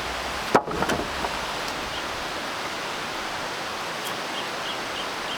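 Steady rushing noise of water, with two sharp knocks a little over half a second in.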